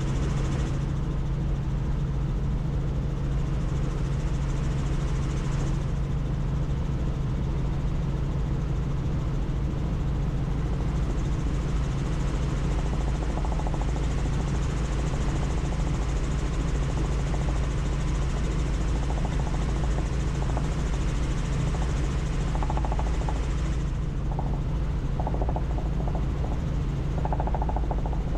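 Helicopter in flight, heard from on board: steady rotor and engine noise with a constant low hum.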